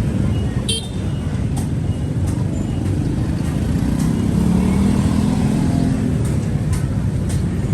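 Steady low rumble of road traffic, with a few sharp clicks and a humming engine-like tone swelling in the middle.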